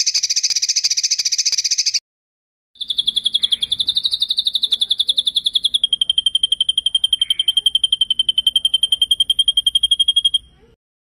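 Songbird trills: a buzzy, rapid trill lasting about two seconds, then after a short pause a long, fast rolling trill of about eight seconds that drops slightly in pitch about halfway through.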